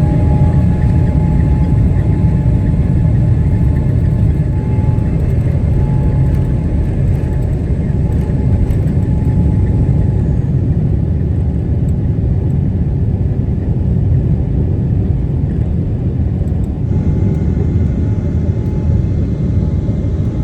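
Boeing 777-300ER's GE90 jet engines at takeoff thrust, heard inside the cabin: a heavy steady rumble with a steady whine held on top, the whine having just finished spooling up. The higher hiss shifts a little past three-quarters of the way in.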